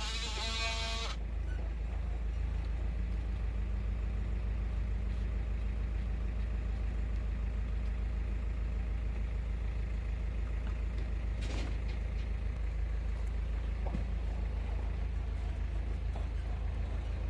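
Steady low motor hum, like an engine idling, holding even throughout.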